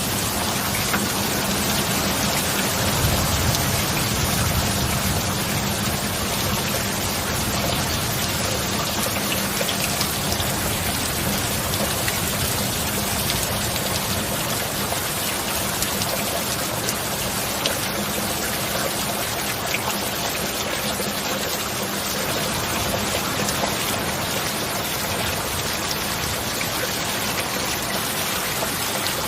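Steady rain falling, an even hiss of many drops. A low rumble swells briefly a few seconds in.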